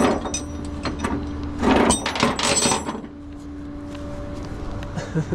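Clattering knocks and rattles in two short bunches, one at the start and one about two seconds in, over a steady low hum.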